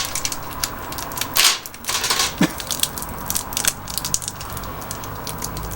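Close-up mouth sounds of sucking a sour hard candy: irregular wet clicks and smacks, with a louder sucking stretch about a second and a half in.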